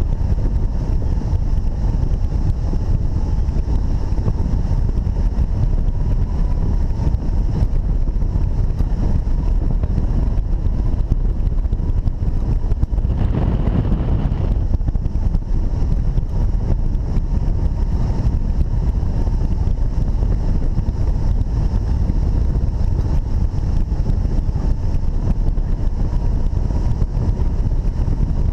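Heavy wind noise buffeting the microphone from the airflow of hang glider flight in strong wind. A faint steady high tone runs underneath, and a brief louder gust comes about halfway through.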